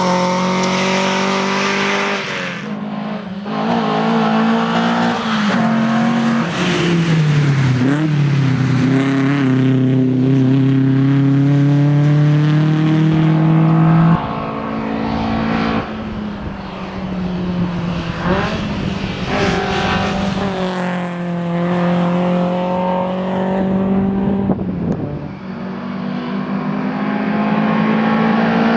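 1961 Volvo 122S rally car's four-cylinder engine driven hard, its pitch repeatedly climbing under acceleration and falling away. There is a sudden drop in pitch about halfway through, like a gear change, and another dip near the end.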